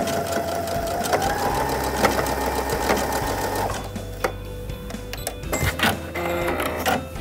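Brother NQ470L computerized sewing machine stitching a blind hem. Its motor whine steps up in pitch about a second in, runs steadily, and drops away near four seconds, leaving a few separate clicks from the needle mechanism.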